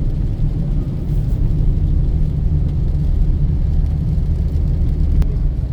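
Steady low rumble of road and engine noise inside a moving car's cabin, with a single short click about five seconds in.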